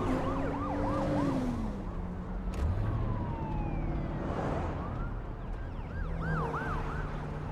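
Emergency vehicle sirens yelping in quick rising-and-falling whoops, in two short bursts at the start and about six seconds in, with slower falling siren tones between, over the steady low drone of a vehicle engine.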